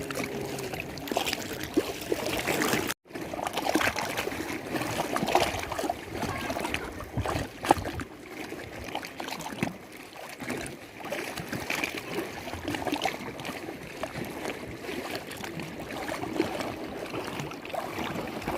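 Lake water lapping and splashing irregularly, with many small splashes. The sound drops out for an instant about three seconds in.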